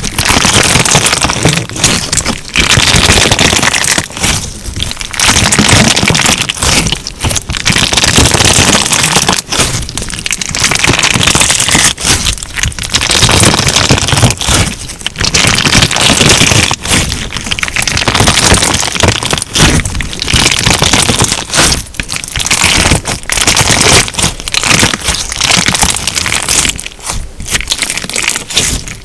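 Crunchy slime squeezed and kneaded by hand, giving a dense run of cracks and crackles in repeated squeezes about every two and a half seconds, with short breaks between them.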